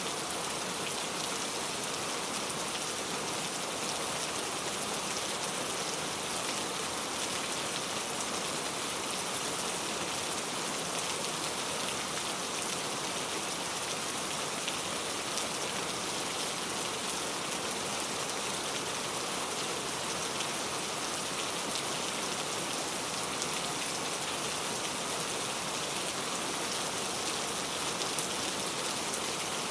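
Steady, even rain falling without let-up, a constant hiss with single drops ticking through it.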